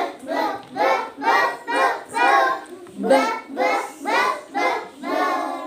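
A child singing a phonics letter-sound song for the letter B, in short sung syllables about two a second.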